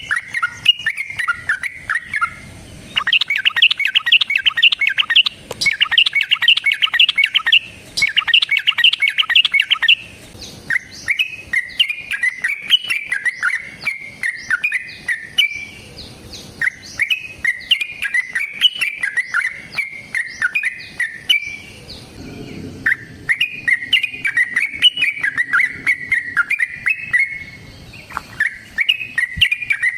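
Yellow-vented bulbul (trucukan) singing: about seven seconds of fast, dense chattering runs, then a string of repeated bubbly warbling phrases with short pauses between them.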